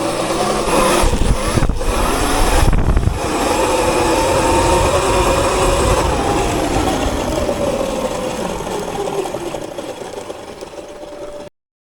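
Sotion FW01 electric motor on a Sur Ron electric dirt bike whining under hard acceleration on a 20 kW, 800-phase-amp tune, with wind rushing over the microphone. The whine holds steady, then slowly drops in pitch and fades as the bike slows, cutting off suddenly near the end.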